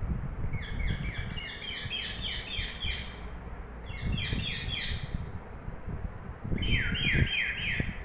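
Pet green parrot calling in three runs of rapid, evenly repeated short chirps, each note falling slightly in pitch.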